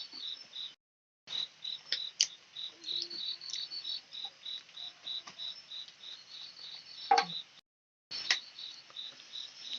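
Crickets chirping in a steady high-pitched pulse, about four chirps a second, with scattered small clicks and one sharper click about seven seconds in. The sound drops out to silence twice, briefly.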